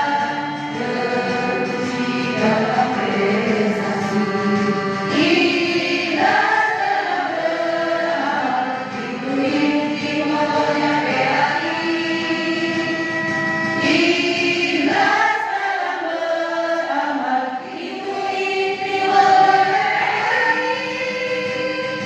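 A group of voices singing a march song together in chorus, with long held notes.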